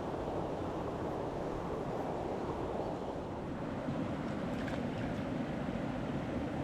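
Steady rush of a mountain stream's flowing water, an even noise without breaks.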